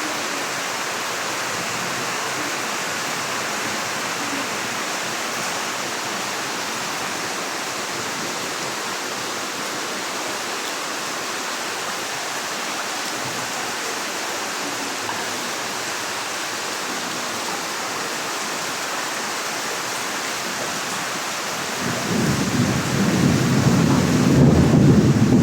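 Heavy tropical rain pouring down as a steady hiss. About 22 seconds in, a louder low rumble builds up and is still growing at the end.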